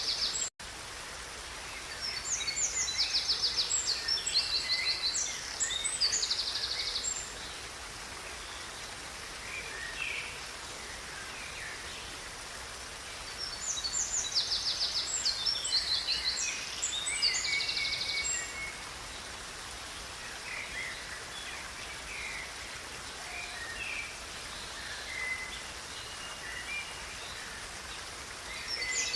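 Songbirds singing over a steady rush of river water. Two long bursts of rapid, high trills and chirps come early and again mid-way, with scattered single calls between them. The sound drops out for a split second just after the start.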